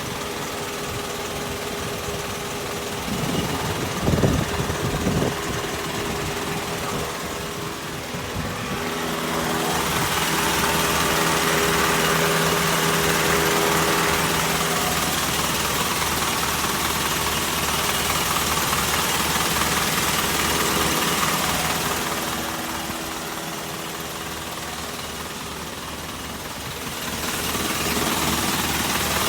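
Isuzu Forward truck's engine running steadily, with a few knocks about four seconds in. It grows louder and brighter about a third of the way through, drops back about three quarters of the way in, and rises again near the end.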